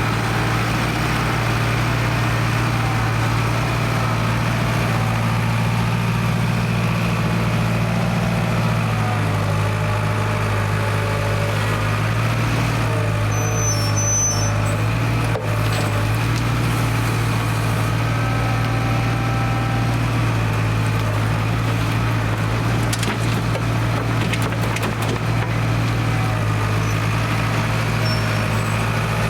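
Diesel engine of an International Harvester 270A backhoe running steadily, with a slight wavering in engine speed.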